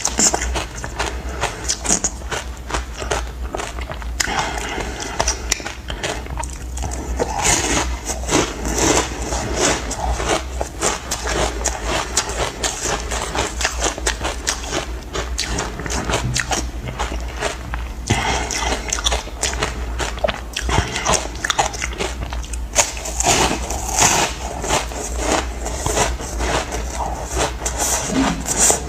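Chunks of ice coated in matcha powder being bitten and crunched in the mouth: dense, irregular crunching and crackling, with a steady low hum underneath.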